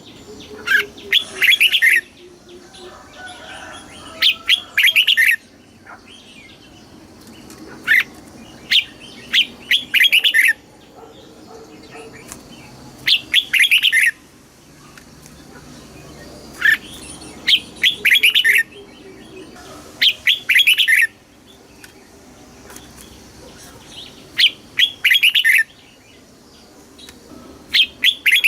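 Red-whiskered bulbul singing: short, bright phrases of quick whistled notes, in loud bursts about every three to four seconds.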